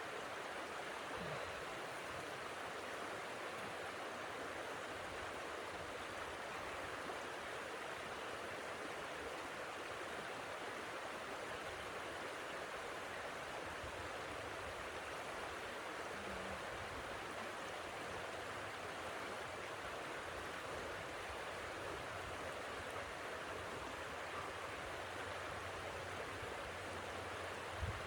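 Steady, even rushing noise that holds the same level throughout, with no gusts or separate sounds.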